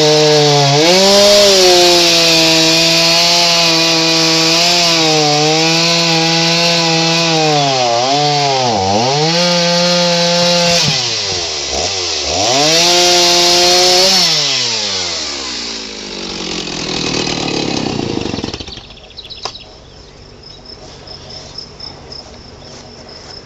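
Two-stroke chainsaw cutting along a blue spruce log, running at high revs with its note dipping several times as the chain bogs in the wood. About 14 s in it drops in pitch and winds down, stopping near 19 s. After that, insects chirp faintly in a steady pulsing rhythm.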